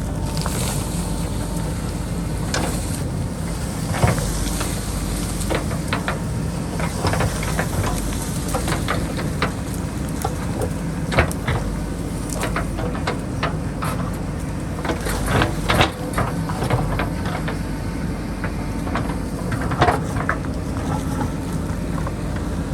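JCB backhoe loader's diesel engine running steadily under load, with frequent sharp knocks and clanks from the bucket digging into rocky hillside dirt, several louder ones scattered through.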